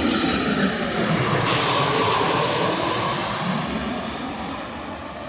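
Airliner passing low overhead: a loud engine roar with falling and gliding tones as it goes by, peaking in the first few seconds, then fading away.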